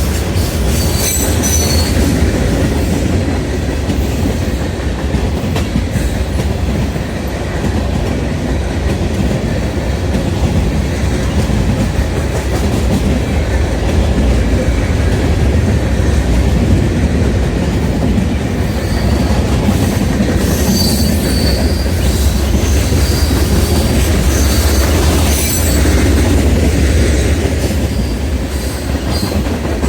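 Freight train rolling past close by, a steady rumble of steel wheels on the rails with clickety-clack over the rail joints. High-pitched wheel squeal rises about a second in and again through the second half.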